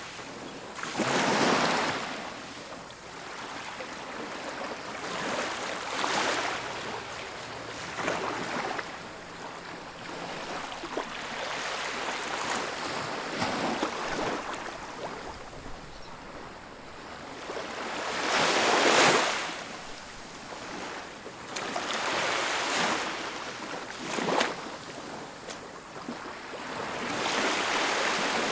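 Ocean waves breaking on a beach, surf washing in surges every few seconds, one larger wave breaking loudest about two-thirds of the way through.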